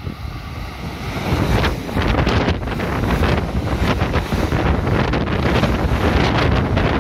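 Silver electric commuter train passing the platform at speed, close by. Its rumble and the clatter of its wheels on the rails build up about a second in and stay loud, with the air it pushes rushing over the microphone.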